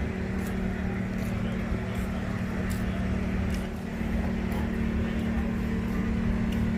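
A motor vehicle engine running steadily with a constant low hum, and scattered light clicks.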